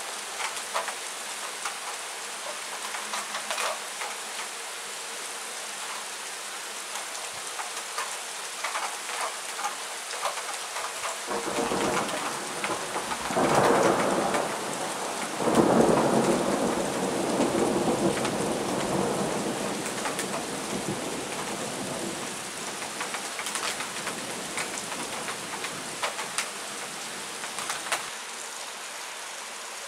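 Thunderstorm: steady heavy rain with drops pattering. Partway through, a long roll of thunder builds, peaks twice and rumbles away over several seconds.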